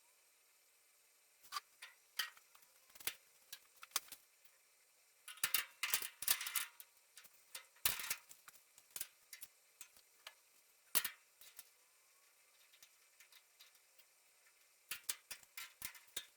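Irregular light clicks and taps of hand work on sheet metal, with a short scraping clatter about six seconds in and a quick run of taps near the end.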